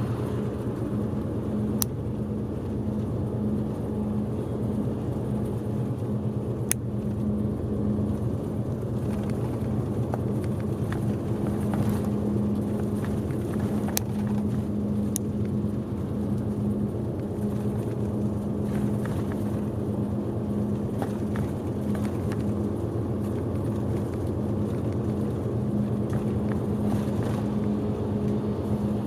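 Route bus running on the road, heard from inside the passenger cabin: a steady engine drone with road noise, and a few sharp clicks of cabin rattles.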